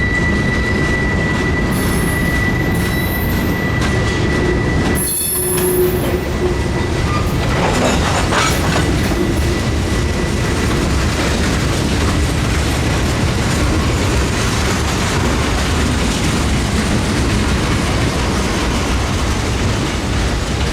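Freight cars of a CSX manifest train rolling past, with a steady rumble, wheel clatter and brief high-pitched wheel squeals. A steady high tone stops about a quarter of the way in.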